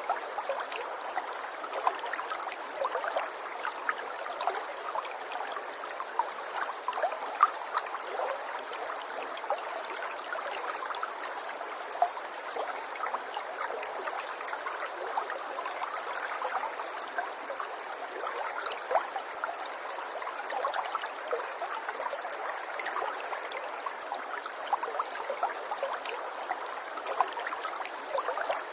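Small stream of running water babbling steadily, with many small splashes and gurgles throughout.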